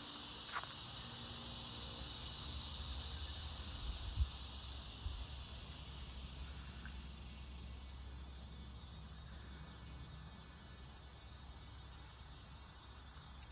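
Cicadas droning in a steady, high-pitched chorus, with a low rumble underneath and a single click about four seconds in.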